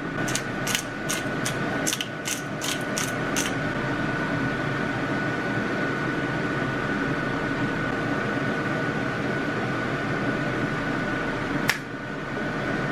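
A hand-twisted pepper mill grinding, about nine quick rasping twists in the first few seconds. A steady hum with a thin high tone runs underneath, and there is a single click near the end.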